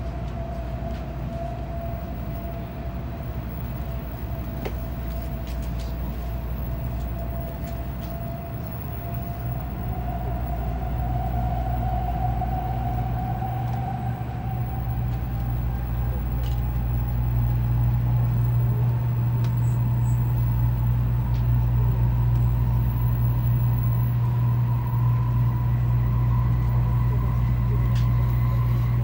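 Shinkansen Hikari heard from inside the passenger car: a steady running rumble with a motor whine that climbs slowly in pitch as the train gathers speed after leaving the station. The noise grows louder from about halfway through.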